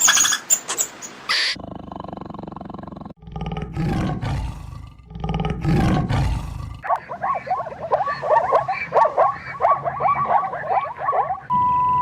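A big cat roaring twice, deep and loud, followed by a long run of rapid, short, high-pitched animal calls. A few sharp clicks come first, and a steady tone starts near the end.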